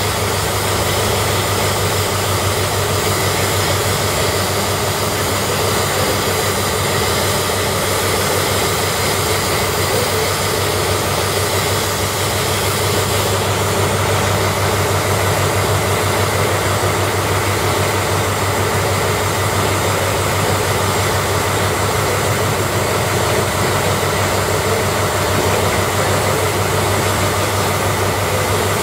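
East Coast trains idling at the platform: a loud, steady drone made of a deep constant hum under an even whirring hiss, with no breaks.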